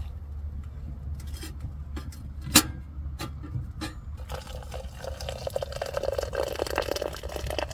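Liquid being poured into a container, its pitch rising as the container fills. A single sharp click comes about two and a half seconds in, before the pouring starts.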